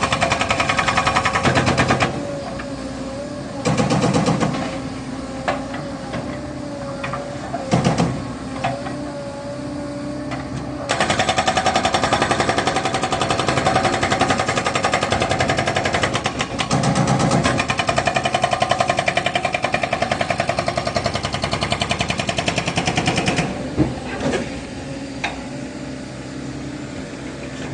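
Hydraulic breaker on a Caterpillar 307 excavator hammering in rapid strokes, in bursts: a short run at the start, brief ones around 4 and 8 seconds in, then a long run from about 11 to 23 seconds in. The excavator's engine runs steadily underneath.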